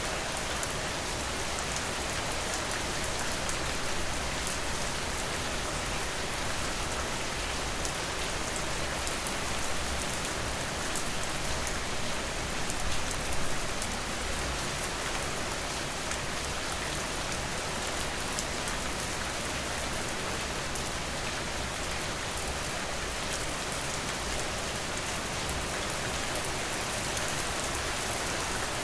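Steady rain falling, an even hiss with fine drop patter, swelling briefly about halfway through.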